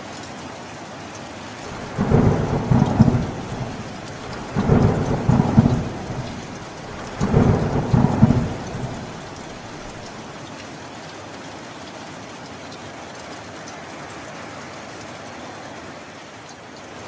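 Steady heavy rain with three rolls of thunder, each a low rumble of a few quick peaks, coming about every two and a half seconds early in the stretch, then steady rain alone.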